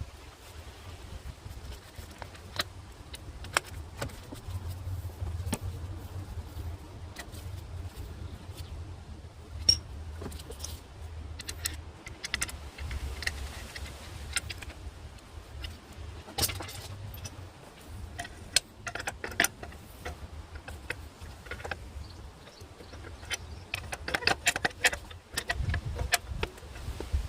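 Scattered metallic clinks and taps of hand tools against engine parts during repair work, coming thickest near the end, over a steady low hum.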